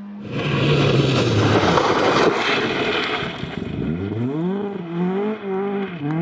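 Rally car at speed: a loud rushing noise with the engine note falling as it passes close, then from about four seconds in the engine revs climb and dip repeatedly as it accelerates through the gears.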